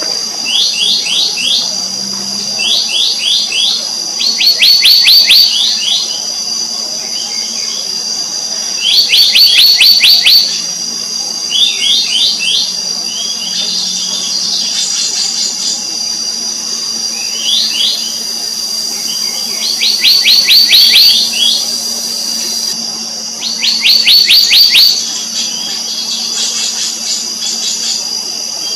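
Black-naped monarch calling: a dozen or so bursts of quick, short down-slurred notes, each burst about a second long and a few seconds apart, over a steady high-pitched drone.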